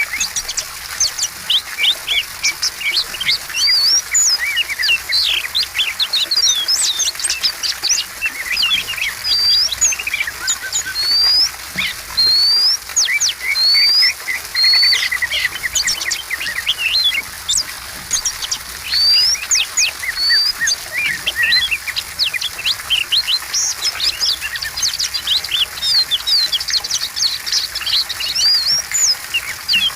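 Oriental magpie-robin (kacer) in full, continuous song: a fast, varied run of clear whistles, rising sweeps and sharp chirps, with a short buzzy trill about halfway through.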